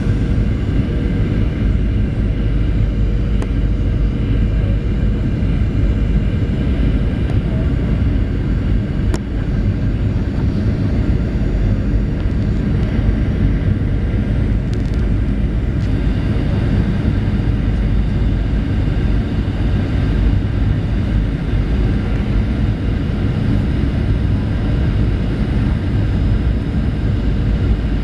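Cabin noise inside a Boeing 737-800 in flight: the steady drone of its CFM56-7B jet engines and rushing air, unchanging throughout, with a couple of faint clicks.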